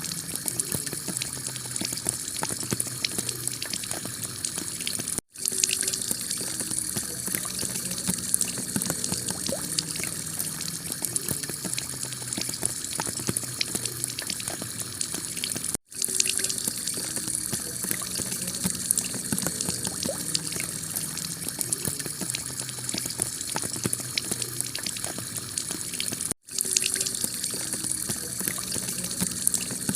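Heavy rain pattering steadily on a clay-tile roof: a dense hiss of countless drop ticks. The sound cuts out for an instant three times, about every ten seconds.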